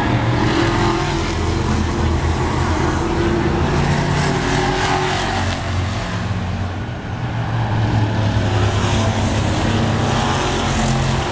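Racing trucks' engines at full speed on an oval track, the pack's sound swelling and fading as they pass. It dips briefly about seven seconds in, then builds again.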